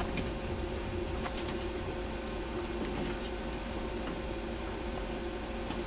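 Steady background hiss with a constant high-pitched insect drone and a few faint clicks.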